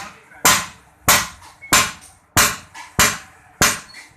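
Steady, evenly paced hammer blows on metal, about seven in all, each with a short ring: a cylinder sleeve being driven into a tractor engine block.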